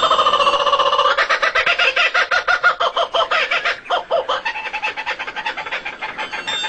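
A bird calling in a rapid run of pulsing notes, a fowl-like clucking call, louder over the first four seconds and quieter after a short break.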